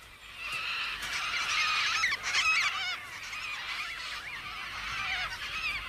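A flock of Major Mitchell's cockatoos calling, many harsh wavering calls overlapping. The calls are thickest in the first half and thin out toward the end.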